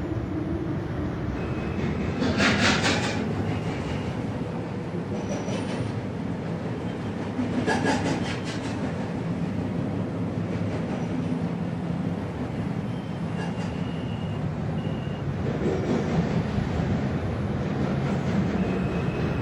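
R142 subway car running along the track, heard from inside: a steady low running noise of wheels and motors, with two short louder bursts of high rattling about two and a half and eight seconds in.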